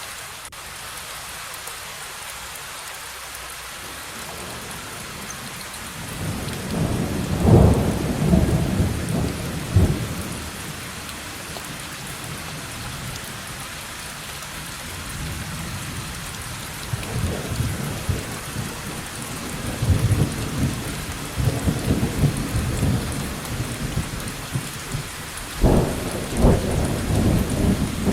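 Steady rain hissing with rolling thunder: a rumble swells about six seconds in and fades after a few seconds, then longer rumbling builds about two-thirds of the way through, with a sharp crack near the end.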